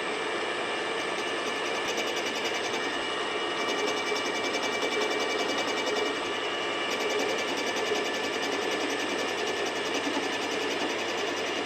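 Grinding wheel plunge-cutting into a steel machine table, a steady motor whine under a fast, fine grinding rasp that grows stronger a few seconds in.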